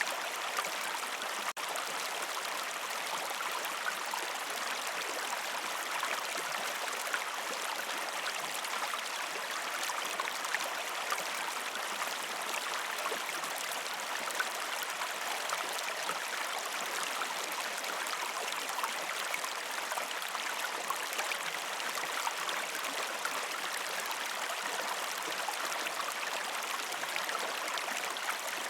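A river stream with water flowing over rocks, a steady even rush with no pauses, except for a momentary cut-out about a second and a half in.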